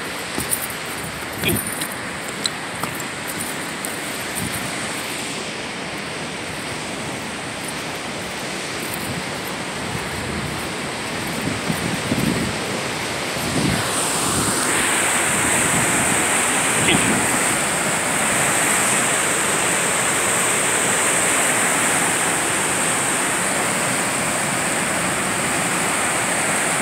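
Rushing whitewater of the Kootenai River falls, a steady noisy rush that grows louder about halfway through. A few light taps sound in the first few seconds.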